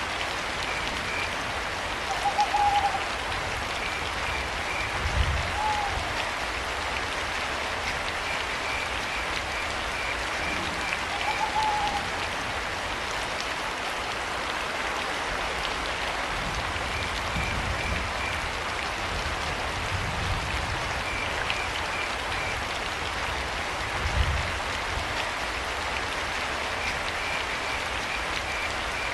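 Steady rain pattering, with crickets chirping in short repeated trills and a few brief owl hoots in the first half. There are a couple of low thuds.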